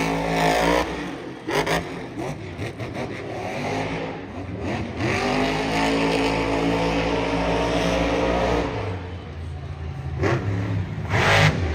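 Monster truck engine revving hard, its pitch climbing and falling, held at high revs through the middle, with a few sharp bangs in between.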